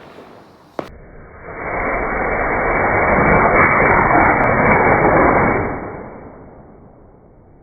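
A sharp click about a second in, then a firework's loud, even hiss that builds over half a second, holds for about four seconds and fades away.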